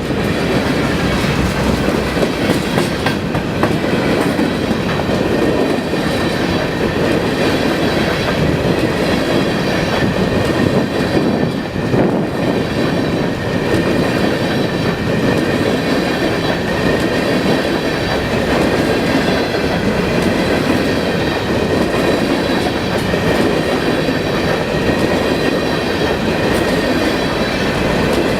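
Freight train of hopper cars rolling steadily past: a continuous loud rumble and clatter of steel wheels on the rails.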